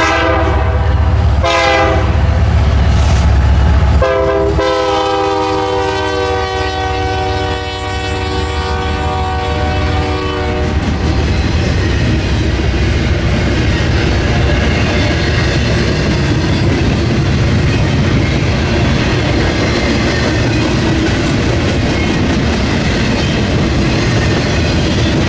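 Diesel freight locomotive sounding its horn in a long, short, long pattern as it passes, the pitch of the last long blast dropping as it goes by. The engine rumbles past, then the freight cars roll by with steady rail clatter.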